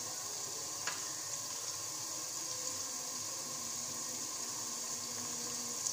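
Onions, tomatoes and spices frying in oil in a pot: a steady sizzle, with one small click about a second in.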